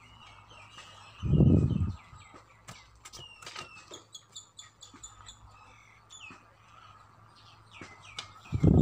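Small birds chirping over and over, quick high chirps that slur downward. A brief low rush of air buffets the microphone about a second in, and again at the very end.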